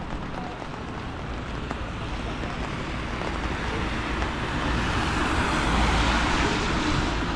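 A car driving past, its tyre and engine noise swelling slowly to its loudest about six seconds in, then starting to fade.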